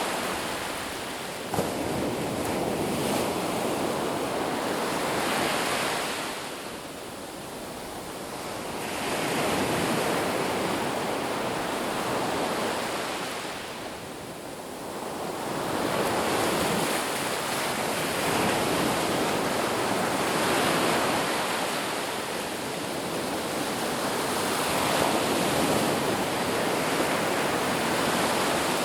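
Ocean surf washing onto a beach, a steady rush that swells and eases every several seconds, with a short click about a second and a half in.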